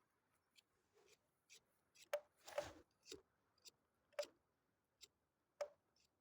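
Near silence, broken by about six faint, sharp clicks scattered through the second half.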